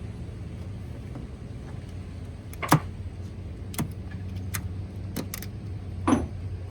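Several sharp metallic clinks, irregularly spaced, of metal tools or parts being handled, with two louder knocks about a third of the way in and near the end, over a steady low hum.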